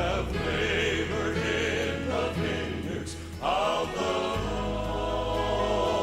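Choral music: a choir singing over held low notes, with a short dip in level about halfway through.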